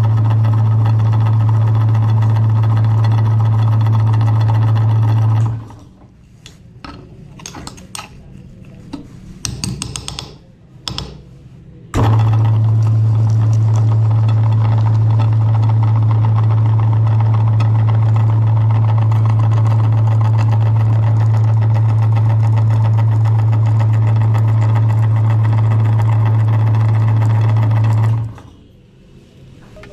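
Electric meat grinder motor running with a steady hum, switched off about five seconds in. A few scattered clicks and knocks follow, then the motor starts again abruptly and runs until it cuts off near the end.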